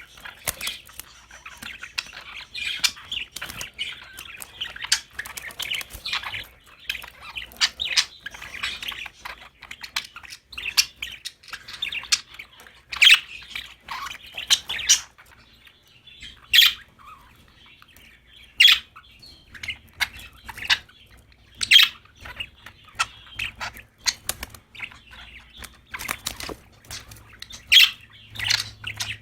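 Budgerigars chattering and chirping: a busy warbling chatter for about the first half, then sparser, sharp single calls.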